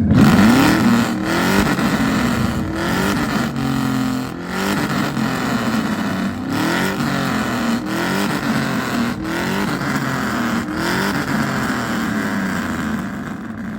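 Vehicle engine revving again and again, its pitch rising each time about every second and a half, fading near the end.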